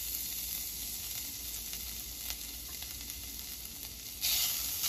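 Chopped garlic and crushed ginger sizzling in a little hot oil in a stainless steel pan. The sizzle starts suddenly as they go in, holds steady, and grows louder about four seconds in.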